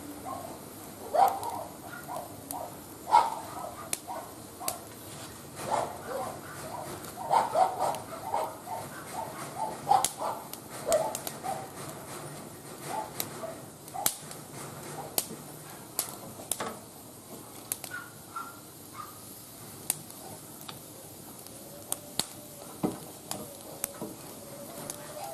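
Burning firewood crackling and popping, with sharp irregular pops throughout. Bursts of short calls, loudest in the first half, come over it.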